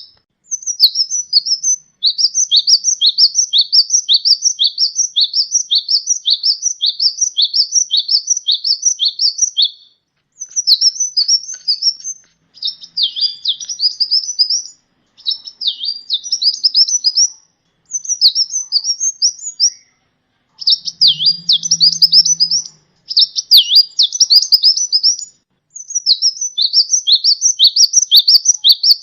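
A sunbird (kolibri) singing: long runs of quick, high, sharply falling chirps, about three a second, in phrases broken by short pauses. This is the rapid 'tembakan' song used for bird-song training.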